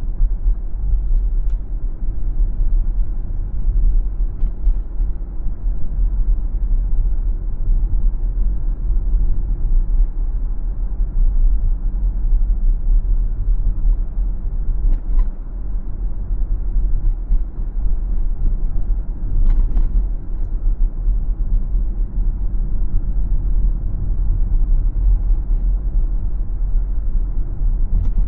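A car driving along a city street, heard as a steady low rumble of road and engine noise, with a few faint knocks about 15 and 20 seconds in.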